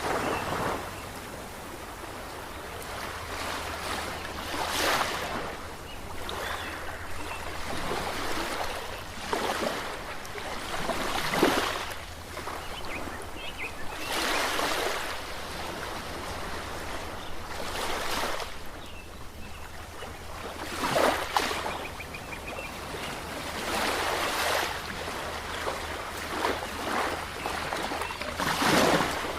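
Ocean waves washing ashore, a surge of surf every two to four seconds over a continuous background hiss of water.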